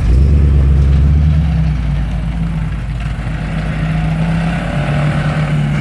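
A vehicle engine running steadily at low revs, loudest for the first second and a half, then slightly quieter.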